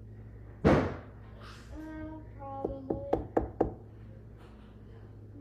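A thump a little under a second in, then a quick run of sharp knocks about halfway through.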